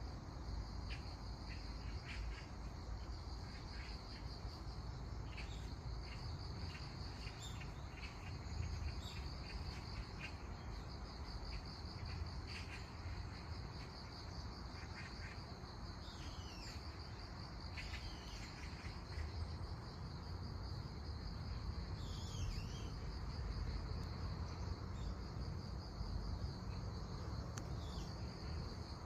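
Crickets chirping in a steady, pulsing chorus, with a few short descending bird chirps partway through over a constant low background rumble.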